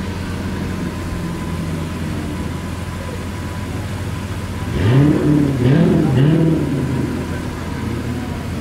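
Sports car engine idling, then revved in three quick blips about five seconds in, each rising and falling in pitch.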